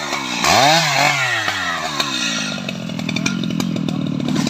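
Stihl MS 881 two-stroke chainsaw revved once about half a second in, its pitch climbing and then falling back. It then runs on steadily at a lower pitch with a rapid clicking rattle.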